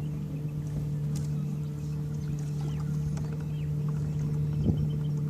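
Boat's outboard motor running at a steady speed, with one constant pitch as the boat moves along.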